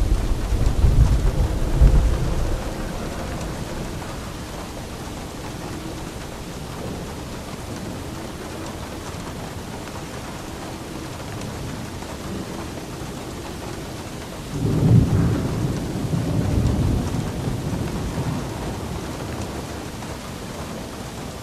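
Steady rain falling, with rolls of thunder: one rumble in the first couple of seconds and a second, louder one starting about two-thirds of the way through and dying away over several seconds.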